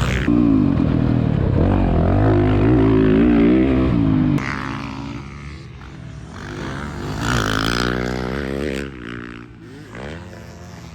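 Dirt bike engine revving up and down as it is ridden on a motocross track, its pitch rising and falling with the throttle. The sound drops abruptly about four seconds in and carries on quieter, with more revs rising and falling.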